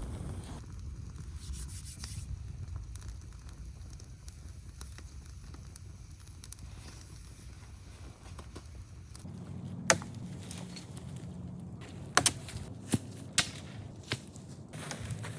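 Sharp cracks of wood, five or six in the second half, the loudest just under ten seconds in, over a steady low rumble.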